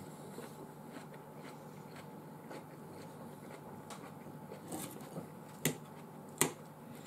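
A person eating close to the microphone: quiet chewing with a few sharp clicks in the second half.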